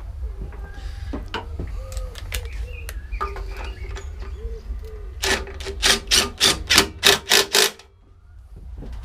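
Ratchet spanner clicking as the carburettor bolts on a Briggs & Stratton lawnmower engine are done up: scattered clicks and tool knocks, then about eight quick ratchet strokes, roughly three a second, from about halfway, stopping suddenly near the end.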